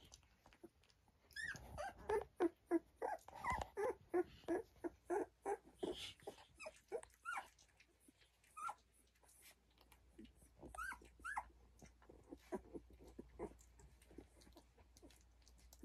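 Two-week-old puppies squeaking and whimpering in a quick series of short calls, some sliding down in pitch. The calls are busiest through the first half, then come sparser and fainter.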